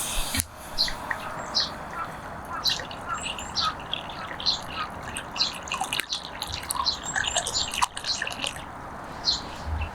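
Small birds chirping, many short high calls repeating throughout over a light background hiss.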